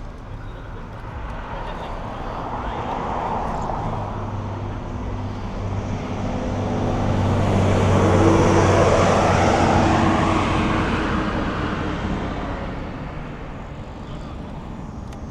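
A motor vehicle passing close by in traffic: engine hum and tyre noise build over several seconds, are loudest around the middle, then fade away.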